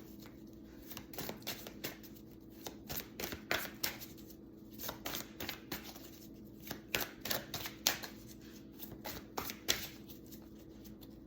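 A deck of tarot cards being shuffled by hand: repeated bunches of quick papery card clicks with short pauses between them.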